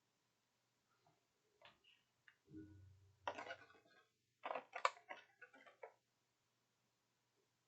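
Plastic miniatures and their packaging being handled: scattered small clicks, a stretch of crinkling about three seconds in, then a quick run of sharper clicks and taps that ends about six seconds in.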